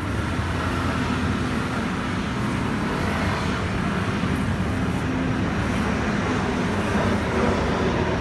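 Steady vehicle engine and traffic noise: a continuous low hum with no sharp knocks or changes.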